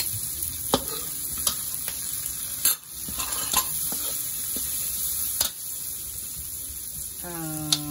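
Chopped red onion and garlic sizzling in hot oil in a large metal wok while a metal ladle stirs them, scraping and clicking against the pan several times.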